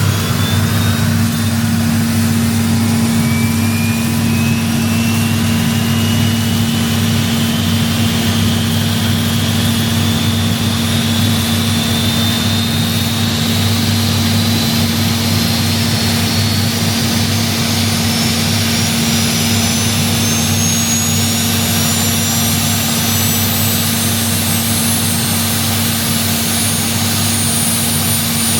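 Westland Lynx helicopter's turboshaft engines running, a high turbine whine climbing slowly and steadily in pitch over a constant low drone: the engines spooling up during the ground run.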